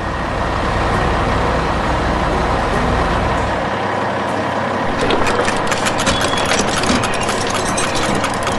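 Heavy construction machine engine running with a deep rumble that drops away partway through. A rapid run of metallic clicks and clanks follows, as of steel beams being gripped and moved.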